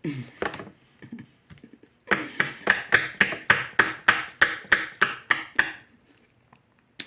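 Close-up chewing of a crunchy toasted taco shell: a quick regular run of crisp crunches, about four a second, lasting a few seconds.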